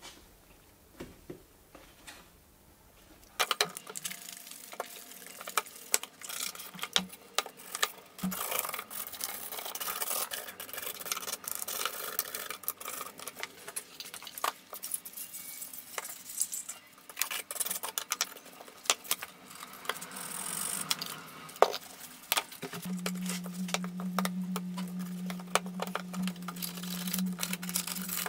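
Scraping, rubbing and clicking of a hand tool and cloth working over a BMW E46's plastic trunk-lid trim strip, starting a few seconds in. A steady low hum joins near the end.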